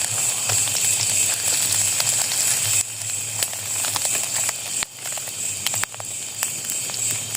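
Food frying in a pan: a steady sizzling hiss with scattered sharp crackles. The sound drops abruptly a little under three seconds in and again near five seconds.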